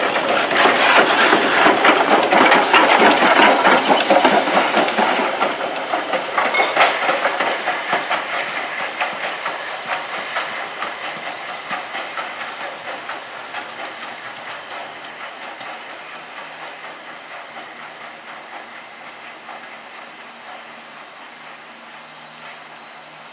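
Steam train passing and pulling away: loud steam hiss over fast rattling wheels on rail, loudest in the first few seconds and then fading steadily into the distance.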